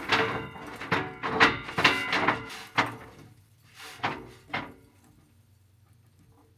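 A run of knocks and clatters, as of hard objects being handled and set down. It thins to two or three single knocks about four seconds in, then stops.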